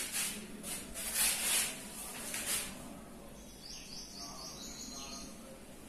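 A few short scuffing noises in the first couple of seconds, then faint bird chirps, a quick run of high repeated notes a little after the middle.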